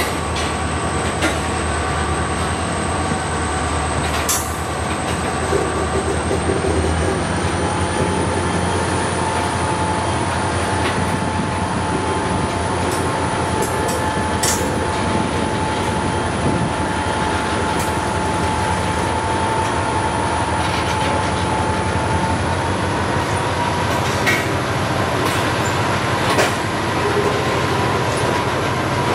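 Freight train hauled by EMD diesel locomotives running along the track: a steady rumble with a thin high whine that rises slightly in pitch twice, and occasional sharp clicks from the wheels and rail.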